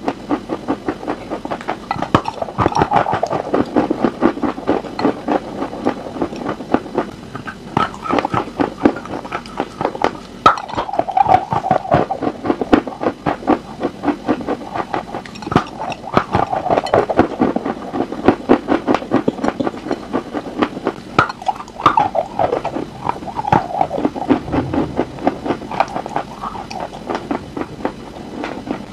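Close-miked biting and chewing of a pressed edible chalk block: dense, rapid crunching and crackling.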